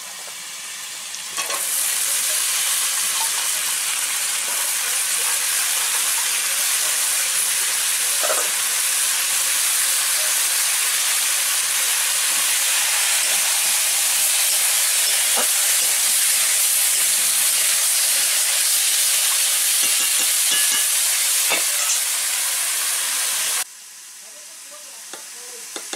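Wet Malabar spinach leaves and stems sizzling loudly in hot oil in a metal kadai, the sizzle starting suddenly about a second and a half in as the greens go into the pan, with a few sharp knocks along the way. The sizzle cuts off abruptly a couple of seconds before the end, leaving a much quieter background.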